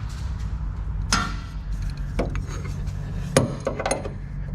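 Hand tools knocking and clinking against metal parts: about four sharp knocks with a short ring, the loudest about a second in, over a steady low hum.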